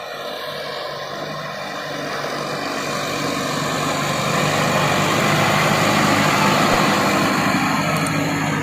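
Kubota tractor's diesel engine running steadily, growing louder over the first six seconds or so and easing slightly near the end.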